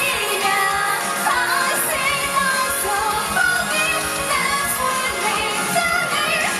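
Pop song performed live through a concert sound system, with singing over a dense backing track.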